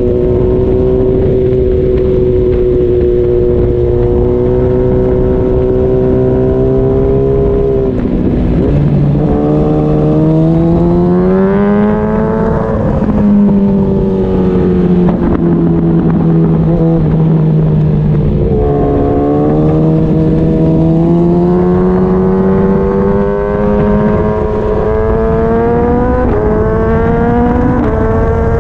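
Suzuki GSX-R sportbike's inline-four engine under way on a race track, heard from onboard. Its pitch holds steady, falls away about eight seconds in, climbs hard, eases down slowly, then climbs again with quick drops near the end as it shifts up.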